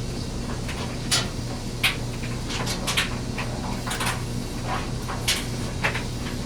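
Knife blade being stroked across a water stone, heard as short, irregular scrapes and clicks about once or twice a second, over a steady low hum.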